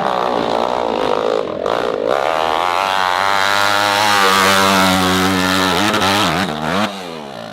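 Dirt bike engine revving hard on a hill climb, the revs swinging up and down, then held high and steady. The revs then drop and rise a couple of times before the engine falls away near the end.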